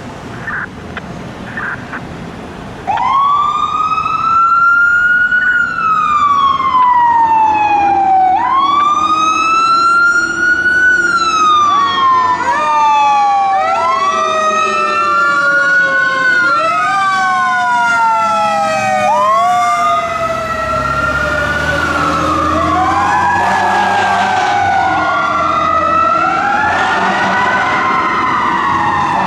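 Fire engine sirens wailing, each cycle rising quickly in pitch and then falling slowly, about every five seconds. A second siren joins about twelve seconds in, so two wails overlap out of step.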